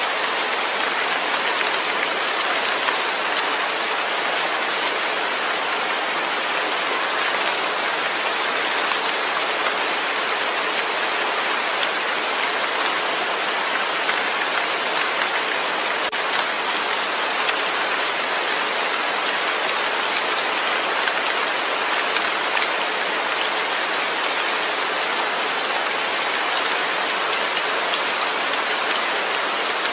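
Steady rain falling, an even hiss of many drops without thunder.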